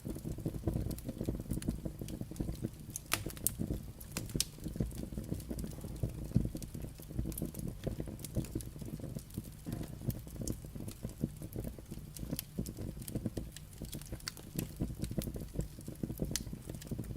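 Firewood burning, crackling and popping: a steady low rumble of the flames with frequent irregular sharp snaps from the logs.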